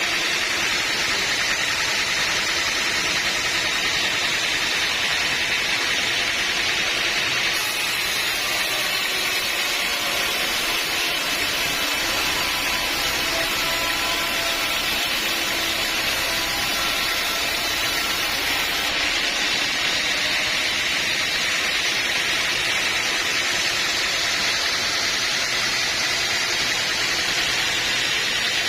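Sawmill saw and machinery running steadily, a continuous loud hiss-like noise with faint whining tones now and then.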